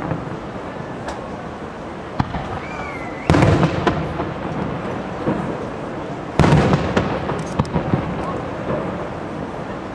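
Aerial fireworks shells bursting: two heavy booms about three seconds apart, with sharper single cracks and pops in between. A short whistle sounds just before the first boom.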